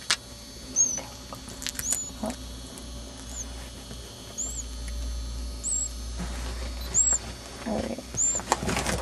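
A parakeet chick cheeping from inside its egg during hatching: short, thin, high peeps about once a second, with a few sharp clicks in between.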